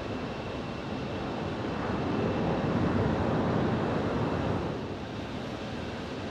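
Jet aircraft engine noise, a steady rushing sound that swells about two seconds in and eases off near the end.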